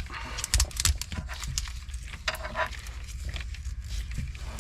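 Scattered clicks, taps and rustles of a power cable and its metal terminal being handled and fitted onto an inverter's terminal stud. A steady low hum runs underneath.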